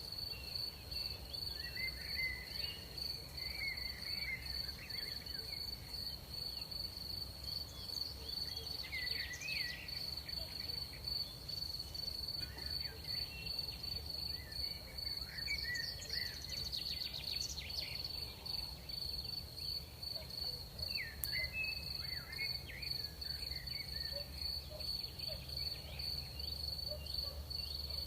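Night ambience of crickets trilling steadily in one high, unbroken tone, with scattered short wavering chirps from other creatures now and then and a low, even background rumble.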